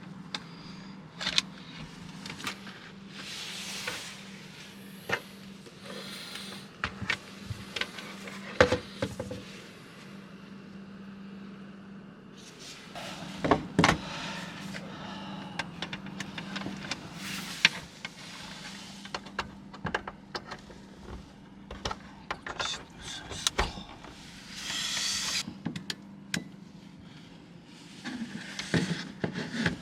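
Knocks, clicks and rustling from someone moving about and handling things inside a small van, over a steady low hum.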